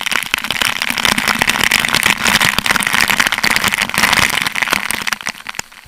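Waterfall pouring down onto the camera, the falling water drumming and splashing on it in a loud, dense crackling rush that starts and stops abruptly.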